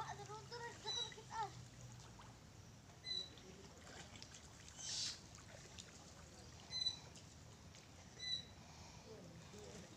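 Faint short bird chirps, repeating every second or two, over quiet shore water, with a brief splash-like hiss about five seconds in.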